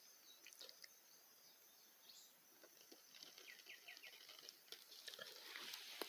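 Faint forest ambience: a bird gives a quick run of five or six short, evenly spaced chirps about three seconds in, among scattered faint clicks, with a soft hiss swelling near the end.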